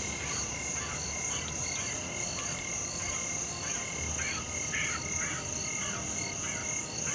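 Night-time tropical forest chorus: insects keep up a steady high buzz with evenly repeating chirps, and frogs croak. A few louder croaking calls come about four to five seconds in.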